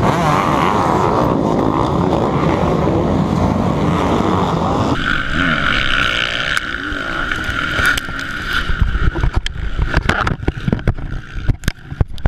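Dirt bike engine running hard, with wind buffeting the microphone. About five seconds in the sound switches abruptly to a steady higher engine note, joined later by a rapid string of knocks and thumps.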